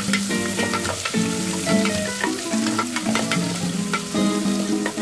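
Sliced onions and green chillies sizzling as they fry in ghee in an aluminium pressure cooker, stirred with a plastic spatula. Soft background music with held notes plays over it.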